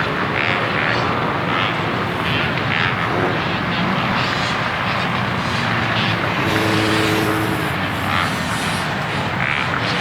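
Several dirt bike and four-wheeler engines running at once, a loud steady mix of motor noise with individual engine notes coming and going.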